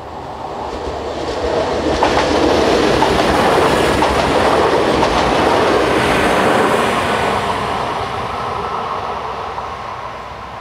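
Trenitalia ATR 220 diesel multiple unit running past a level crossing: the sound builds over the first two seconds, holds at its loudest for about five seconds, then fades as the train moves away.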